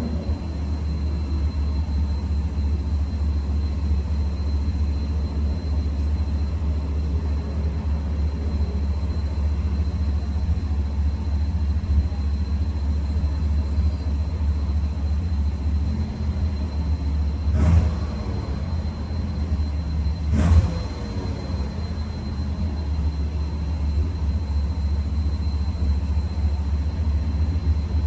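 Truck engine idling steadily soon after a cold start, with two short throttle blips that rise and fall back about two-thirds of the way through.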